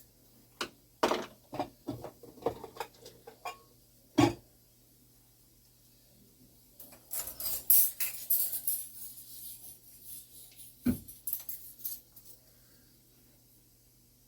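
Hands greasing a clock mainspring: a string of light clicks and taps with one sharper knock about four seconds in, then a few seconds of rubbing and rustling with another knock.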